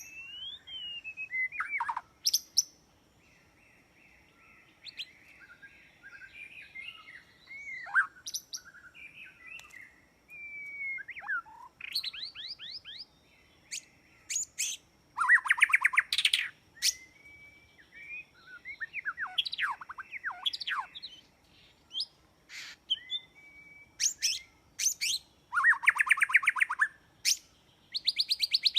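White-rumped shama singing a long, varied song: gliding whistles, sharp clicking notes and loud rapid trills, in phrases separated by short pauses.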